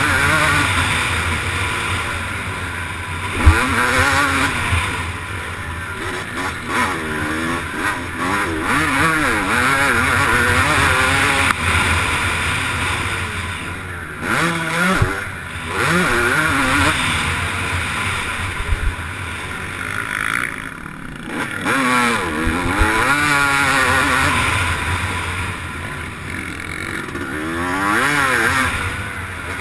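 Motocross bike engine revving up and down again and again as it accelerates, shifts and backs off, with wind rushing over the camera. A sharp knock about three and a half seconds in, and a few smaller knocks later.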